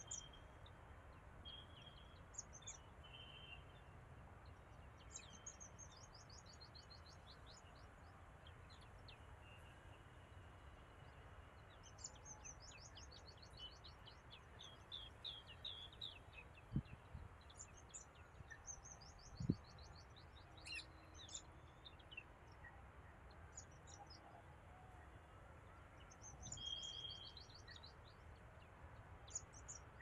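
Faint birdsong: several bursts of rapid, high, trilled notes with short whistled notes between them, over a low background hiss. Two dull low thumps come a little past halfway.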